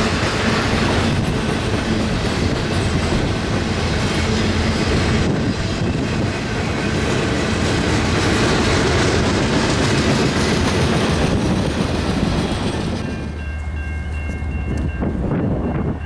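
Freight train cars rolling past, their wheels clacking and rattling over the rails. Near the end the rattle drops away, leaving a steady low rumble.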